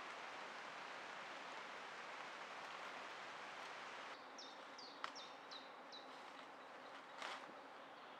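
A bird sings a quick run of about five short, high, falling notes a little past halfway, over a steady outdoor hiss that drops slightly about four seconds in. Two sharp clicks sound, one about five seconds in and another near the end.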